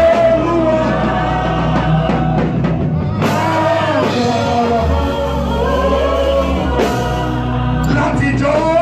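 Worship song sung over a live band, with a voice holding and bending long sung notes over steady bass and drums.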